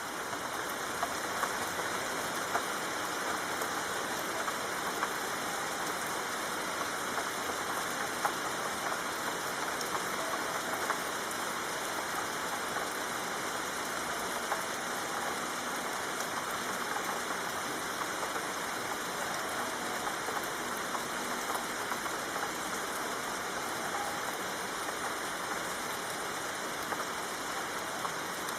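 Steady soft rain falling, a constant hiss with scattered small drop ticks.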